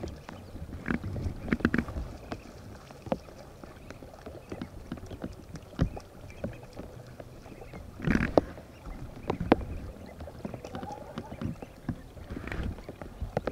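Irregular water splashes and knocks, like water being stirred or paddled through, with the biggest splash about eight seconds in.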